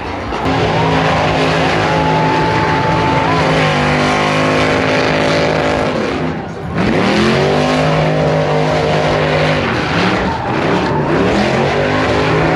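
Truck engine held at high revs during a burnout, spinning the rear tires. The revs drop and climb back up about six seconds in, and again near ten seconds.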